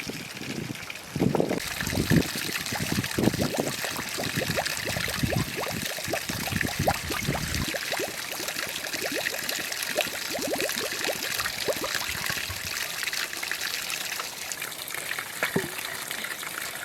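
Running water: a steady rush that starts about a second and a half in, with many small splashes over the first half that thin out later.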